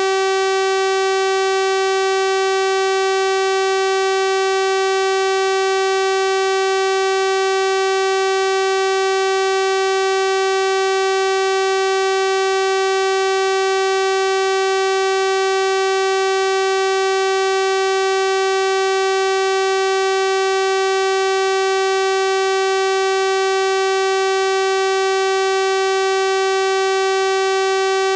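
Synthesized 384 Hz sawtooth-wave test tone, a steady buzzy drone held at constant pitch and level with no change.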